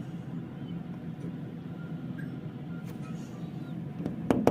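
Steady low hum of an air conditioner running, with a few sharp clicks near the end.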